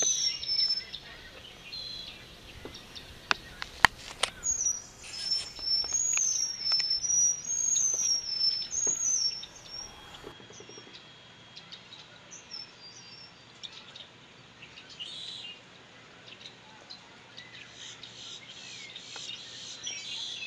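Songbird singing in repeated high, wavering chirp phrases, with a few sharp clicks about four seconds in; from about ten seconds in the song drops away to fainter, scattered chirps.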